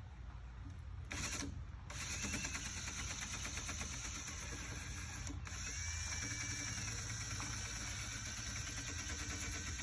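A power sander working old paint off a metal vehicle hood. It gives a short burst about a second in, then runs steadily from about two seconds in, a dense buzzing with a fast fine rhythm and a high whine.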